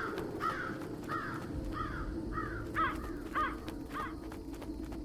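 Crows cawing in a steady series of short harsh calls, a little under two a second, over a steady low background noise.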